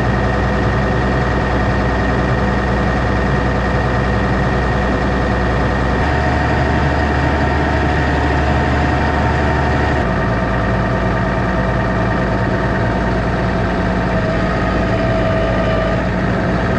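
Diesel tractor engine running steadily, its tone shifting abruptly about six seconds and again about ten seconds in.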